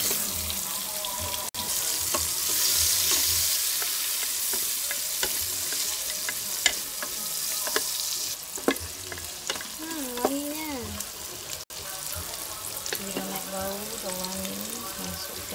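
Sliced shallots, garlic and ginger sizzling in hot butter in a pot, stirred with a wooden spatula that knocks against the pot now and then. The sizzle is loudest just after they go in and eases after about eight seconds.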